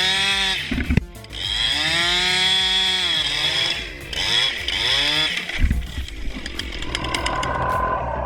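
Chainsaw running under load, its engine pitch rising and falling through three long cuts. About five and a half seconds in, a sudden heavy low thump and rumble follows.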